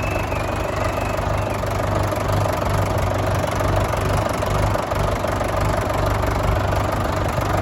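Fordson Major tractor's diesel engine running steadily under way.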